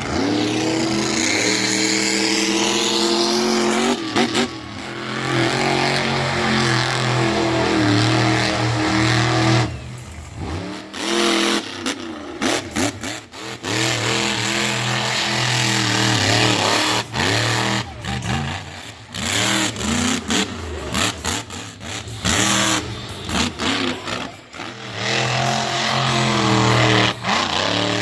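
Monster truck engines running at high power and revving, the engine note rising and falling. The sound breaks off and changes abruptly several times.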